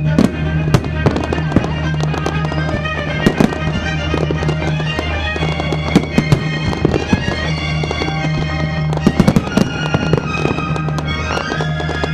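Aerial fireworks bursting and crackling in quick, irregular succession, with the sharpest bangs around 6 and 9 seconds in. Loud music with held notes and a steady low bass plays underneath.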